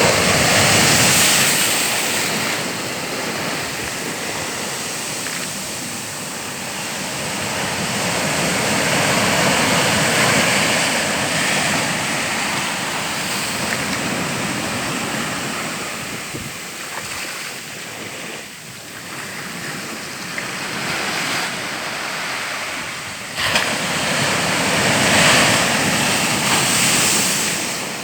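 Surf: a continuous rush of water noise that swells and eases, with surges near the start, about ten seconds in and near the end, and a sudden rise about 23 seconds in.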